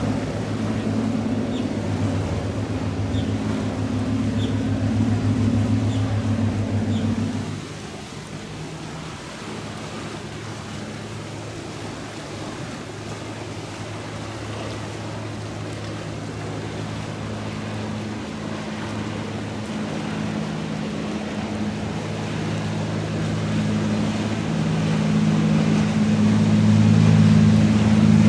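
Powerboat engines running as boats pass through the inlet. One steady low engine drone drops away suddenly about seven seconds in. Another grows steadily louder toward the end, over the wash of water.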